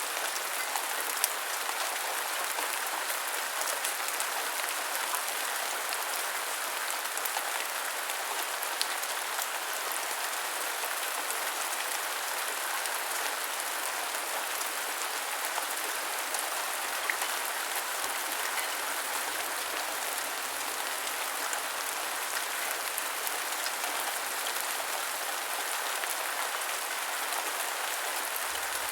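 Steady heavy rain, an even hiss of falling water with a few separate drops standing out now and then.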